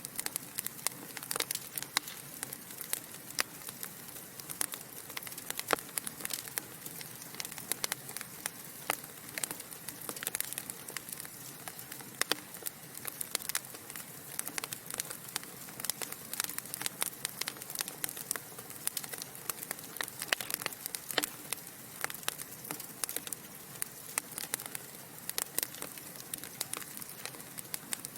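Wood fire in a fireplace crackling: frequent sharp pops and snaps from the burning logs over a steady soft hiss.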